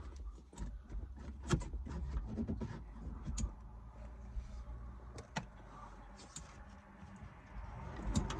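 Scattered light clicks and knocks over a steady low hum, from hand work on a vehicle's blower motor and its mounting.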